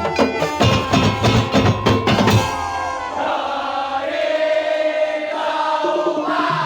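Madurese daul (tongtong) percussion ensemble playing. For about the first two and a half seconds there are dense, rapid drum and gong strikes, then held melodic notes over lighter percussion.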